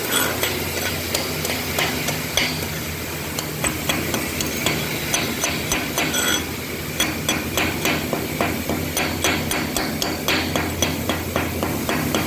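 CO2 (MIG/MAG) gas-shielded arc welding: a rapid, irregular crackle of sharp clicks over a steady low hum from the welding machine.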